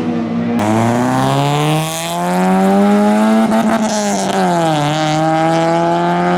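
Loud car engine revving hard as the car pulls away, its pitch climbing for a few seconds, dipping once about three-quarters of the way through, then climbing again.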